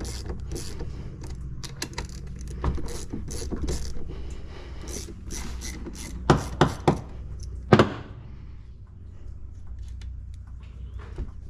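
Hand tools and metal parts of a pressure-washer pump being handled during its rebuild: a run of small mechanical clicks and rattles, with four louder knocks between about six and eight seconds in.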